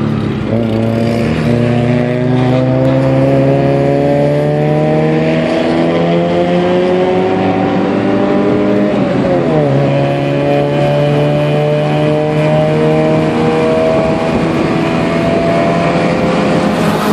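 Nissan B13's GA16 1.6-litre four-cylinder engine, heard from inside the cabin, accelerating hard at full throttle: the revs climb steadily through one gear, fall sharply at an upshift about nine seconds in, then climb again through the next gear. Near the end the revs drop suddenly.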